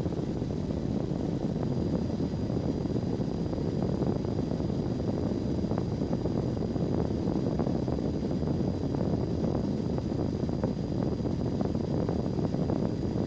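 Cockpit noise of a Cessna 172S Skyhawk climbing at full throttle: its four-cylinder Lycoming engine and propeller running steadily.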